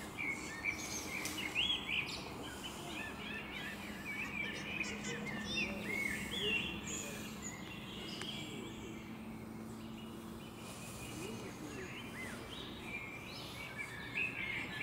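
Songbirds chirping and singing in short rising and falling notes, busiest in the first half and again near the end, over a faint steady low hum.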